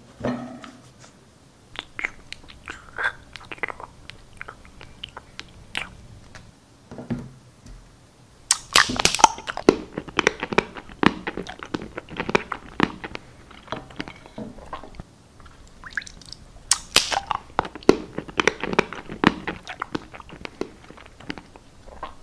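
Close-up ASMR-style chewing and crunching: many sharp crunches and wet mouth clicks, with two spells of louder, denser crunching, about eight seconds in and again about seventeen seconds in.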